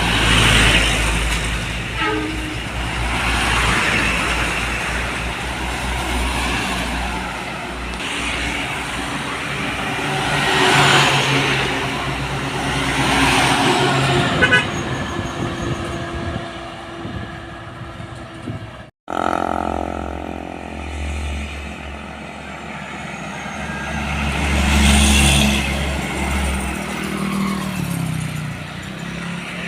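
Road traffic: trucks and other vehicles passing one after another, each pass rising and fading over a deep engine hum. The sound cuts out for an instant about two-thirds of the way through, then a heavy engine drone continues.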